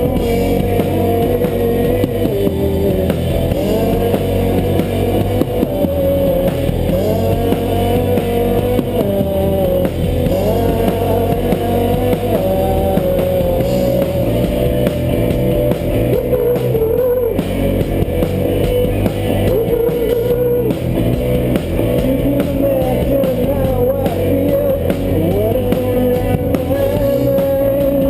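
Live rock band playing an instrumental passage: a wavering melodic guitar line over bass and drums.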